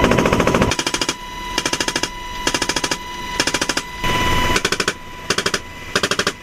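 M240H machine gun fired from a helicopter door in short bursts of about half a second, six or so bursts with brief pauses between them, each a quick run of evenly spaced shots.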